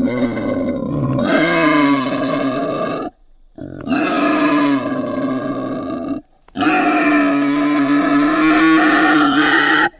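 Edited hamster sound effect: three long, drawn-out animal calls with a steady pitch, each cut off abruptly, at about three seconds, about six seconds and near the end.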